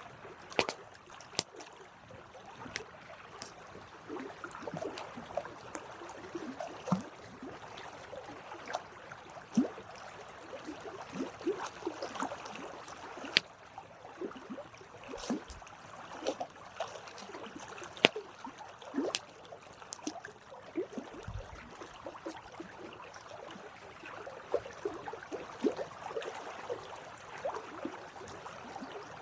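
Campfire crackling: wood burning with a steady soft hiss, irregular small crackles and frequent sharp pops.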